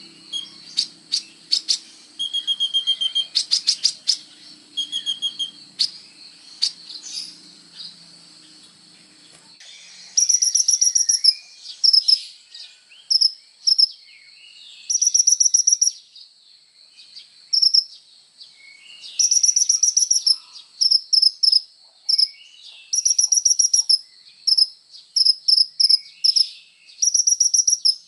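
Kolibri ninja (a sunbird) singing: rapid, high-pitched chirping trills in repeated bursts, coming thick and fast after about ten seconds. A steady high insect-like drone runs beneath, and a faint low hum is there for the first ten seconds.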